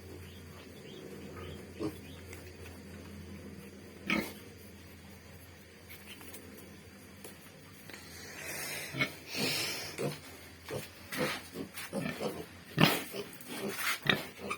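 Pigs grunting, a run of short, uneven grunts through the second half, with a single sharp knock about four seconds in.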